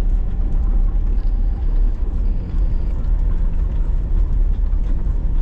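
Vehicle running at driving speed over a packed-snow road: a steady low engine and drivetrain rumble with faint scattered ticks and rattles.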